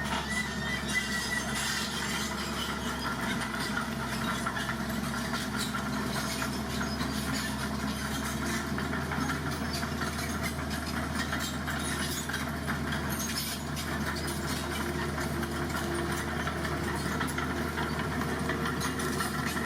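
Dump truck's diesel engine running steadily.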